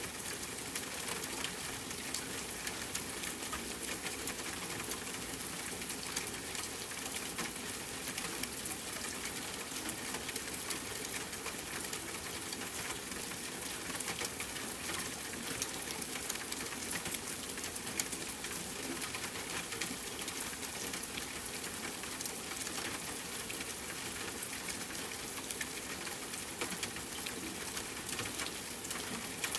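Steady rain falling, with a dense, even patter of many small drops hitting a surface.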